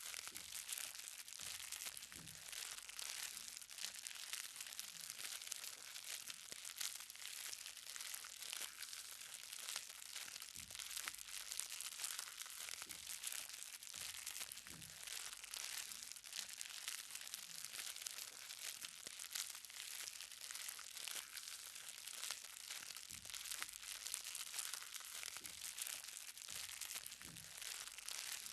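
Light rain: many small raindrops falling on the ground with a faint, steady fine hiss, and every couple of seconds a heavier, lower-pitched drop.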